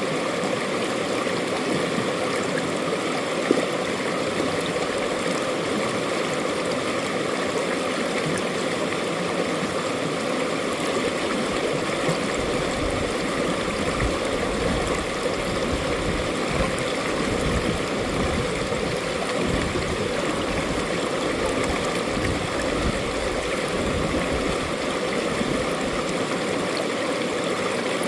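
Mountain valley stream running steadily, a constant rush and babble of water.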